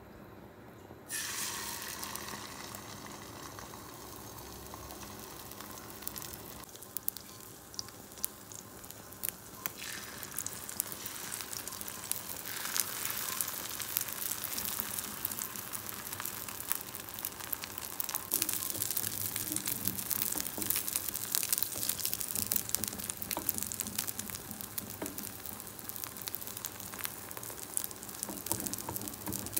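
Beaten egg with onion and green chilli hits a hot oiled frying pan, starting a sudden sizzle about a second in. The omelette then fries steadily with many small crackles, growing louder about twelve seconds in.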